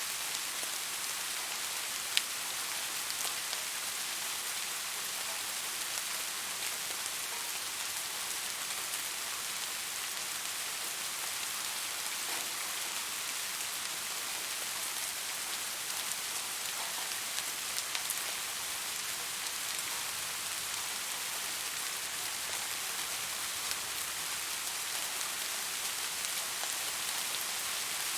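Steady rain falling, an even hiss with scattered drop ticks, one slightly sharper tick about two seconds in.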